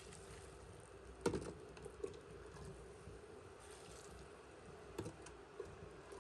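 A few light knocks or clicks, the loudest about a second in, over a steady faint hum.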